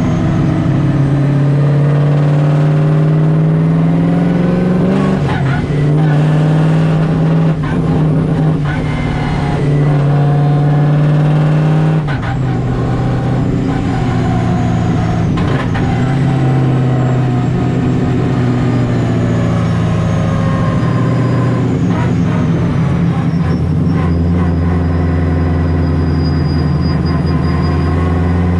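Supercharged Nissan 240SX engine driving at low revs: its pitch climbs and then drops back several times as it pulls through the gears.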